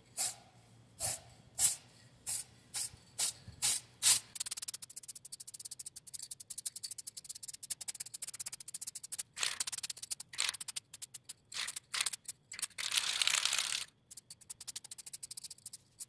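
Aerosol can of chrome spray paint hissing in short bursts as it is sprayed over a car wheel's spokes, first in separate puffs, then in fast flickering taps, with one longer spray of about a second near the end.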